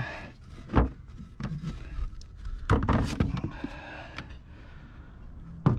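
Bottles and aerosol cans being handled and knocked together: a thump about a second in, a cluster of clattering knocks around three seconds in, and another thump near the end.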